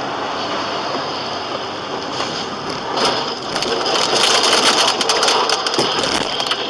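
Rain and road spray pelting the windshield of a moving car, heard from inside the car: a steady hiss that swells louder and more spattery about three seconds in.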